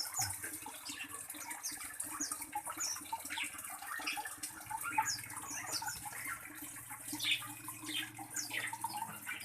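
Small birds chirping: many short, high, downward-sliding chirps, several a second and overlapping.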